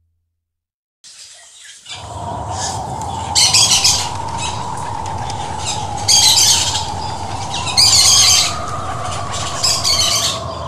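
Birds calling in short, loud, high-pitched bursts about every two seconds over a steady background noise, starting after about a second of silence.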